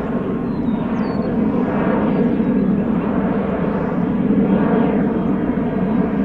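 Wide-body jet airliner's engines running loud and steady on departure, a whine of stacked engine tones over a broad rumble.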